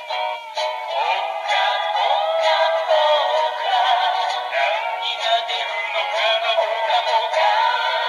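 Yo-kai Watch Dream toy playing a medal's song through its small built-in speaker: a synthetic-sounding voice sings over music, thin and without bass.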